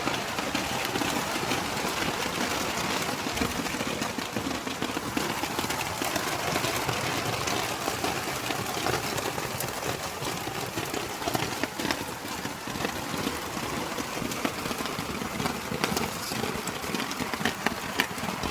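Heavy rain falling steadily, a dense even hiss with many sharp drop impacts ticking through it.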